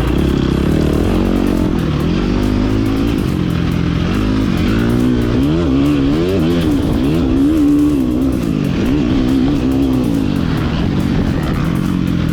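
Motocross dirt bike engine being ridden hard, its revs climbing and dropping again and again through throttle changes.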